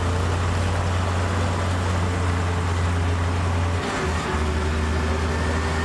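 Heavy diesel earthmoving machinery running steadily with a deep drone, which dips briefly about four seconds in.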